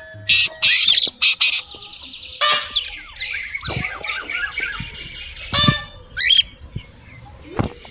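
Several birds calling: four loud, harsh squawks in quick succession in the first second and a half, then busy chirping with a few more loud squawks scattered through the rest.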